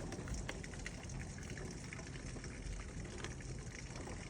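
Heavy rain falling steadily, a continuous hiss with many small drop ticks scattered through it.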